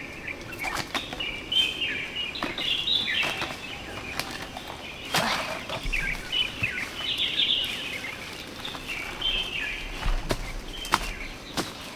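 Birds chirping in short repeated phrases, with scattered sharp clicks and light rustling.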